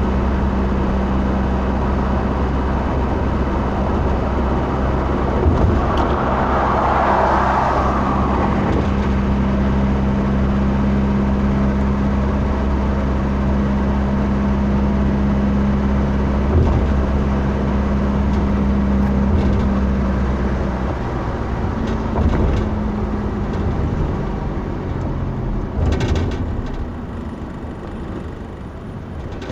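Steady drone of a motor vehicle, an engine hum under road noise, with the engine note changing and easing off about two-thirds of the way through.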